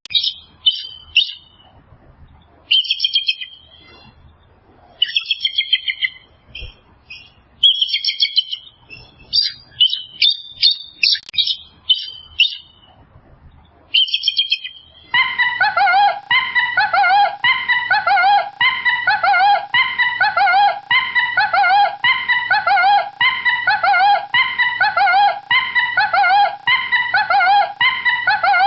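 Small birds chirping and twittering in short high bursts for about fourteen seconds, then a different animal call, pitched with a curved shape, repeating steadily about once a second.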